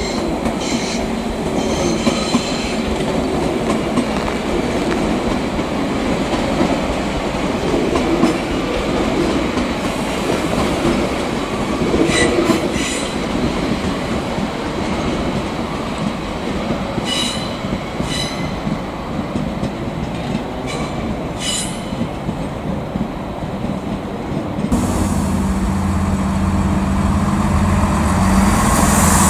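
A train running through a station, with the steady rumble of wheels on the rails and several short, high-pitched wheel squeals. Near the end, a steady low drone comes in and grows louder.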